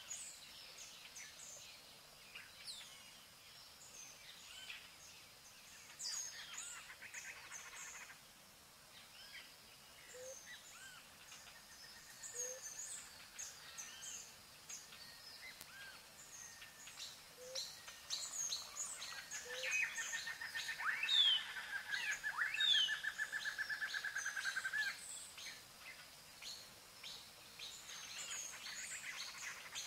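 Small birds chirping and calling, with many short high chirps overlapping. A rapid trill runs for several seconds past the middle.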